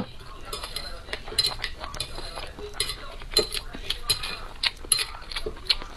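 Eating utensils clinking and scraping against a bowl while food is stirred and picked up, a couple of light irregular clicks a second.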